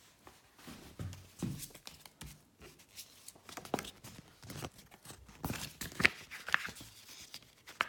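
Irregular rustling and crinkling of a folded paper tube map being handled, with a cluster of sharper crackles a little past the middle.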